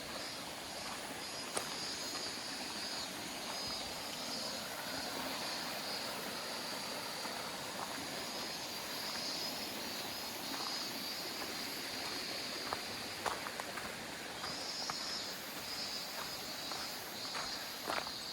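Steady rushing of a mountain stream, with a few light clicks near the end.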